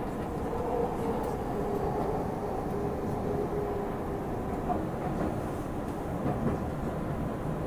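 Inside the cabin of a Tokyu Oimachi Line electric train slowing into a station: steady rumble of the wheels on the rails, with a faint motor whine that falls in pitch.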